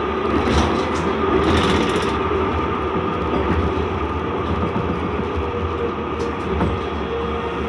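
C Class (Alstom Citadis) tram running, heard from inside the car: a steady rumble with a steady whine, and short bouts of clattering in the first two seconds and again around six seconds in.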